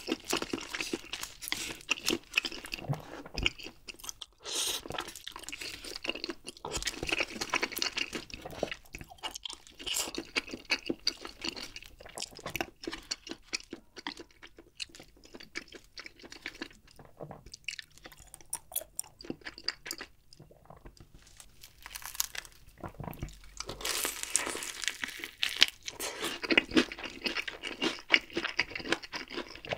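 Close-miked eating sounds: wet chewing of saucy instant noodles and crispy fried chicken, with crunchy bites that come thick and loud in the last few seconds.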